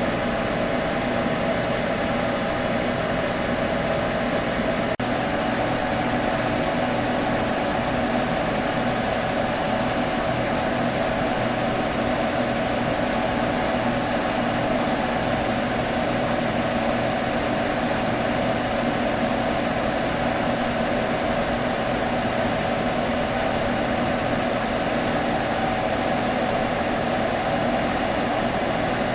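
Computer humming steadily: an even whir of cooling fans with a constant mid-pitched hum, broken only by a momentary dip about five seconds in.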